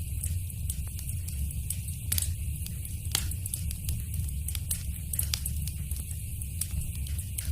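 Fire crackling in a fireplace: a steady low rumble with frequent sharp pops and snaps, a couple of louder ones about two and three seconds in.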